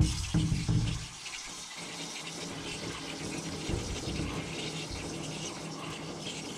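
Water spraying steadily onto a dirty air-conditioner evaporator coil to wash it clean, with a sharp knock at the very start.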